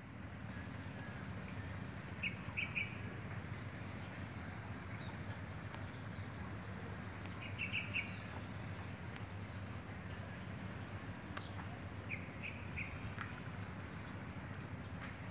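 Birds chirping in a garden over a steady low background rumble. A short high chirp repeats about once a second, and a quick phrase of three or four notes comes back about every five seconds.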